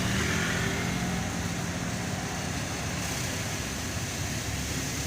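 A motor vehicle's engine running steadily at idle, a continuous low hum.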